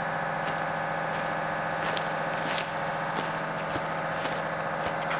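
An engine idling steadily, a constant hum with a few faint clicks over it.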